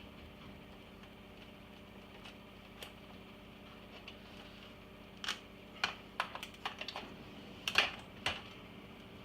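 A quick run of about ten sharp clicks and clacks from hard parts being handled, bunched in the second half, over a faint steady hum.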